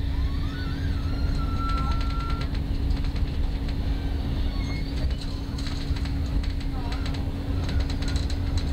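Passenger train running, heard from inside the carriage: a steady low rumble with a constant hum, and scattered clicks from the wheels on the track.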